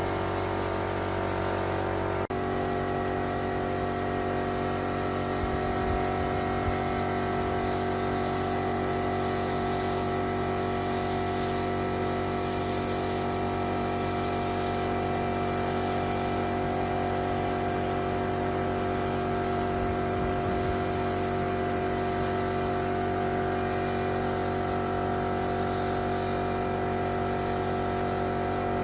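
A power tool's motor running at a steady speed, giving a constant hum with a hiss over it.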